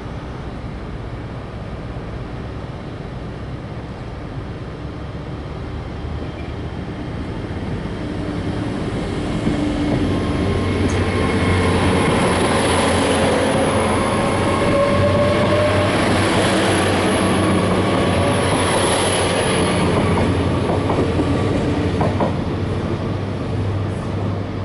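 GWR Class 800 bi-mode train pulling away under diesel power: its underfloor engines run and its wheels rumble on the rails as the coaches pass close by. The sound builds to its loudest in the middle, with a faint rising whine as it gathers speed, then eases as the train draws away.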